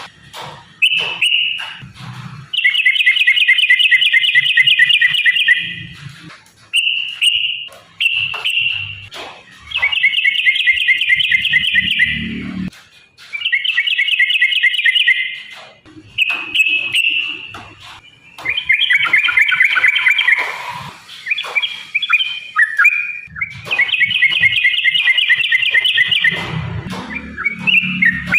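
Yellow-vented bulbul (trucukan) song: about eight loud bouts of rapid, chattering notes, each one to three seconds long, with short breaks between them.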